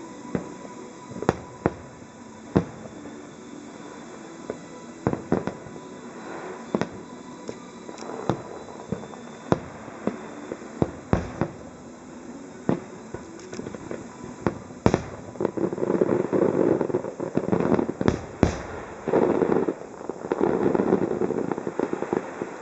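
Aerial firework shells bursting in a rapid, irregular string of bangs. From about fifteen seconds in, the bangs give way to dense crackling from crackle shells, with a few sharp reports among them.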